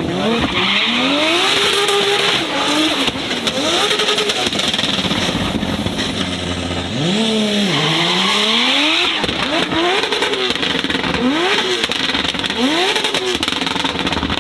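Performance car engine revved hard again and again during a drift, its pitch climbing and falling about ten times, over the hiss of spinning tyres.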